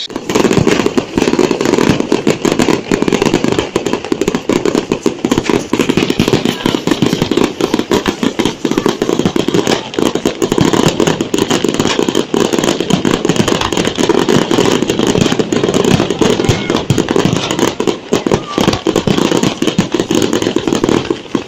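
Fireworks going off in a dense, unbroken run of crackling bangs.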